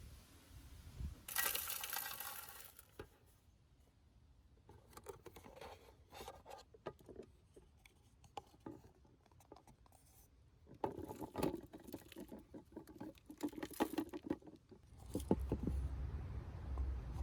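Loose bird seed mix poured from a cup into a plastic bird feeder: a rush of pattering seed about a second in, then scattered clicks and a longer stretch of rattling and scraping as more seed goes in and the feeder is handled. A low rumble comes in near the end.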